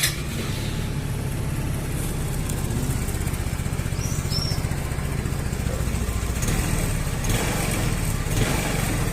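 150 cc single-cylinder scooter engine starting and settling into a steady idle.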